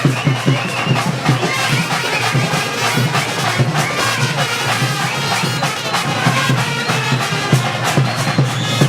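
Kavadi procession music: shrill wind instruments playing a melody over steady drumming.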